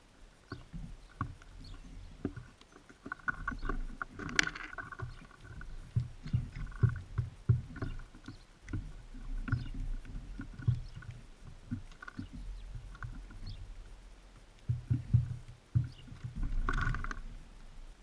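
Birds feeding at a seed feeder right beside the camera: irregular knocks, taps and scratches of beaks and feet on the feeder and seed, with two brief higher-pitched bursts, one about four seconds in and one near the end.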